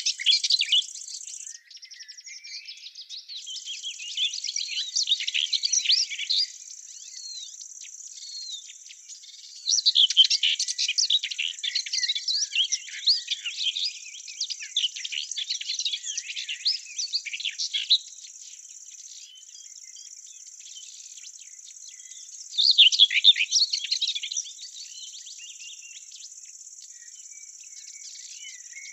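Small birds twittering in bursts of rapid chirps, loudest from about ten to eighteen seconds in and again around twenty-three seconds, over a steady high-pitched hiss.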